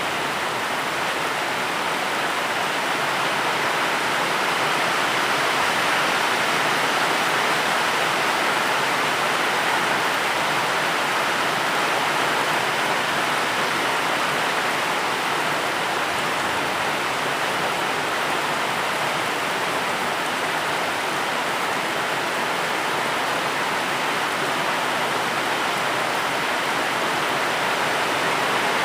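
Steady rain, an even, unbroken hiss of falling water with no single drops standing out.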